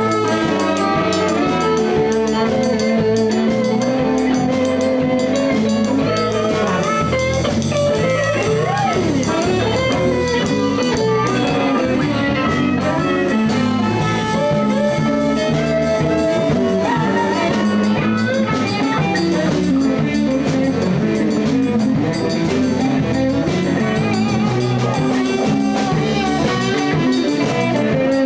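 Live blues band playing an instrumental passage: electric guitar over bass and drum kit at a steady level, with a few bent notes about a third of the way through.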